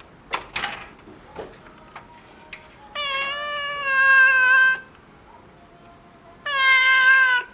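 A cat meowing: two long, drawn-out meows, the first lasting nearly two seconds and the second about a second, after a few short clicks near the start.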